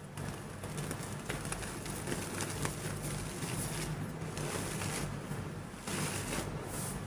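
Soft, crumbly gym chalk being crushed and crumbled: a run of small scattered crackles, with a denser gritty rush about five seconds in.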